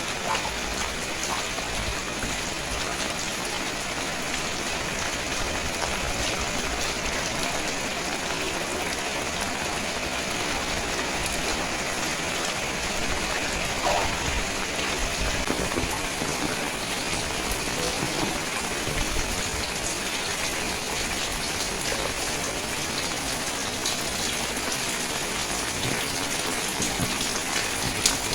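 Steady rain falling: an even hiss with scattered small drip taps, and a slightly louder tap about fourteen seconds in and again near the end.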